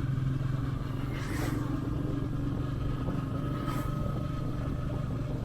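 Motorcycle engine running steadily while riding along a road. Two brief whooshes come through, about a second in and again near four seconds.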